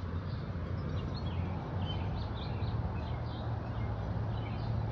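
Birds chirping now and then, short faint calls scattered throughout, over a steady low hum and background noise.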